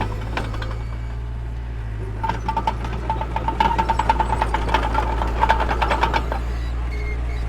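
Mini bulldozer's diesel engine running steadily with a low drone. From about two seconds in to about six seconds, a rapid run of metallic clanks with a squeal rides over it.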